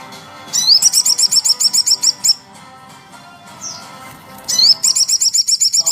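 A small songbird singing two bursts of rapid, evenly repeated high chirps, each opening with a short rising sweep. The second burst starts about four and a half seconds in. This is the kind of song used as 'masteran', a recording played to teach competition birds new song material.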